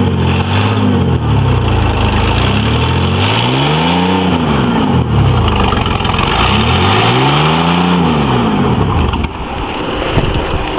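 Homemade mud truck's engine revving up and falling back twice, with a steady rough rushing noise under it.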